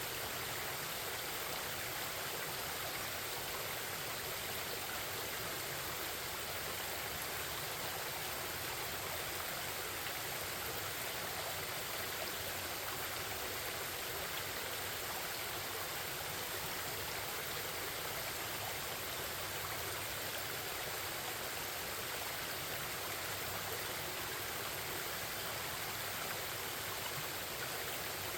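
Forest stream flowing: a steady, even rush and babble of running water.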